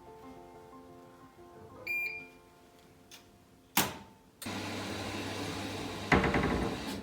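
Microwave oven: a keypad beep, the door knocked shut, then the oven running with a steady hum and whirr that grows louder near the end.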